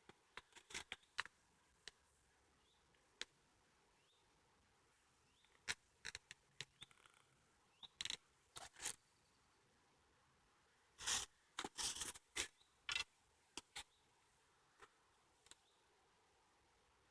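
Footsteps crunching on a dry woodland path: scattered crackles and clicks, densest about two-thirds of the way through, with near silence between.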